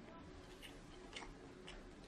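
Faint chewing of seafood: soft, wet mouth clicks about every half second.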